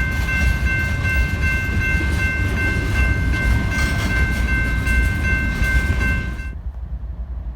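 Freight train cars rolling past close by, wheels clacking over the rail joints with a steady high-pitched ringing tone over the rumble. About six and a half seconds in the sound cuts off abruptly, leaving only a low rumble.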